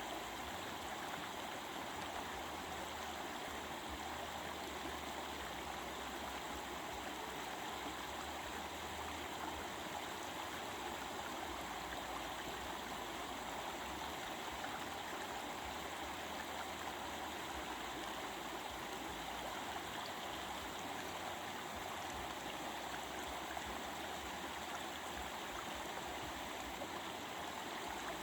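Stream water running over rocks, a steady babbling and rushing.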